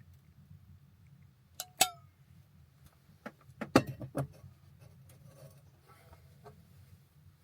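A few sharp clinks and knocks of small hard objects being handled, one with a brief metallic ring, over a low steady hum.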